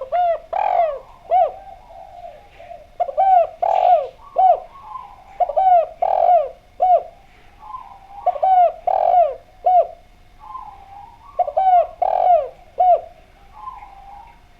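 Spotted dove (derkuku) cooing: five phrases, each of three or four arched coos, about three seconds apart.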